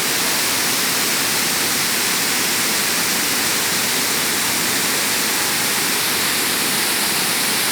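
A waterfall rushing: a loud, steady wash of falling water with no breaks.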